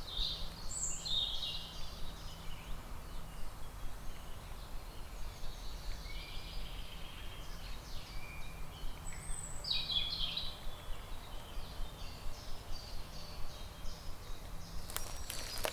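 Several songbirds singing and chirping in a forest, with many short trills and calls over a faint steady low hum. A few sharp clicks or knocks come near the end.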